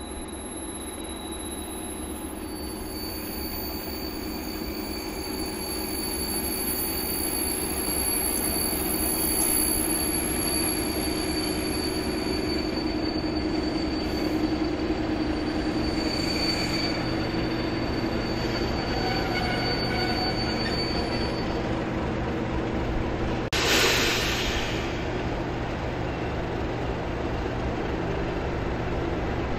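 A train passing: a steady rumble that builds over the first several seconds, with a thin, steady high tone through most of it. About 24 seconds in comes a short burst of hiss.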